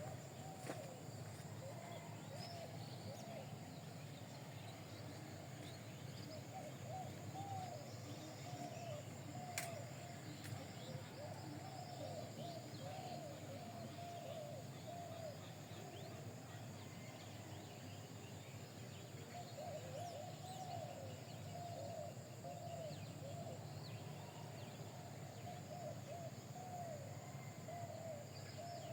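Runs of short, repeated chirping calls from small animals over a steady low hum.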